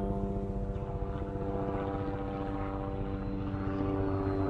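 Small electric RC helicopter (Sentry E110) in flight, its motor and rotor giving a steady buzzing hum that holds one pitch.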